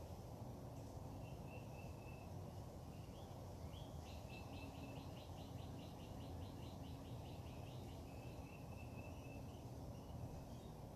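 Faint birdsong: short, high, trilling phrases that recur, with a run of quick repeated notes about four seconds in. A steady low background rumble runs beneath it.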